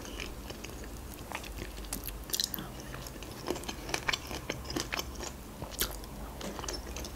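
Close-miked eating sounds: chewing and biting, with irregular small wet clicks and crunches. Near the end a forkful of Korean-style shredded carrot salad goes into the mouth.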